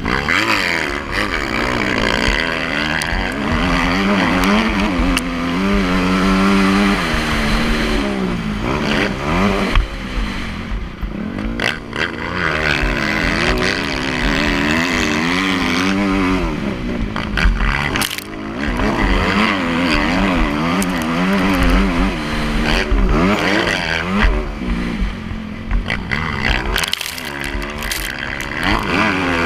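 Motocross dirt bike engine revving, its pitch climbing and dropping again and again as the rider opens and shuts the throttle and shifts gears.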